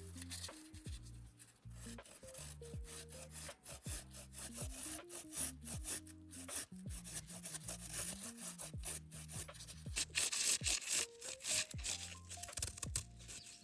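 Background music with a melody and bass notes, over many irregular scraping strokes of food being prepared by hand.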